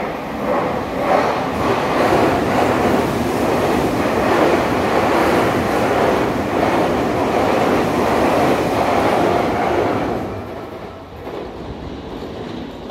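Tokyu Toyoko Line electric commuter train running past at close range, a loud steady rumble of wheels on rail. It fades away from about ten seconds in.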